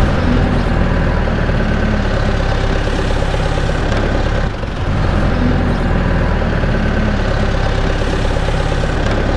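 Engine running steadily at idle, with a brief dip in level about halfway through.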